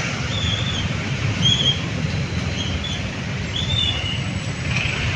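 Steady low rumble of a vehicle on the move, with several short high chirps scattered through it.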